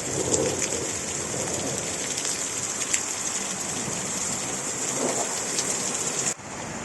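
Hailstones pelting down, a dense steady hiss pricked with sharp clicks of individual stones striking. The sound drops abruptly near the end.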